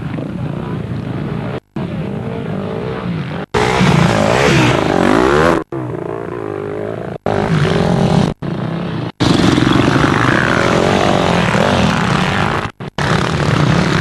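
Enduro motorcycle engine revving up and down as the bike is ridden around the track, heard from the rider's helmet. The sound cuts out abruptly for a moment several times.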